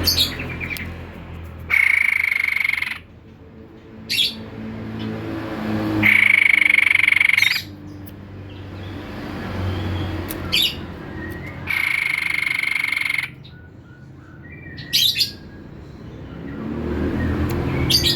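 White-chested babbler calling in a repeating pattern: a loud, steady note held about a second and a half, coming about every five seconds, with short sharp chirps in between.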